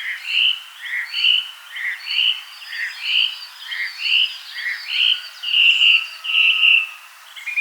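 A forest songbird singing a two-note phrase over and over, a lower note followed by a higher one, about once a second, with other birds calling faintly behind.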